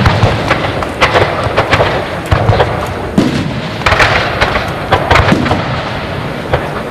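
Aerial fireworks display: a dense run of bangs and crackling shell bursts, with heavier booms about three, four and five seconds in.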